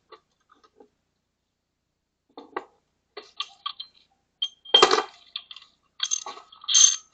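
Metal hand tools clinking and knocking as a wrench is found and set on an 18 mm bolt: irregular sharp clinks, with louder clusters about five seconds in and near the end.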